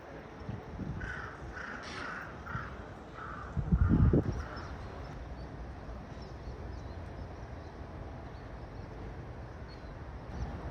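A crow cawing in a quick run of about eight short calls. A brief low rumble sounds about four seconds in, louder than the calls.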